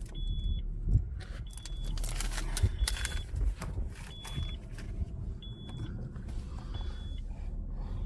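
2000 Nissan Frontier's key-in-ignition warning chime: a thin high beep repeating about once every 1.3 seconds, the sign that the key is left in the ignition with the door open. Scattered clicks and knocks of handling in the cab sound with it.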